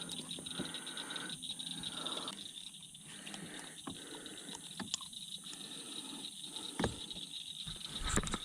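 Steady high insect trilling, typical of crickets, with scattered light clicks and knocks as a small bullhead catfish and the fishing gear are handled.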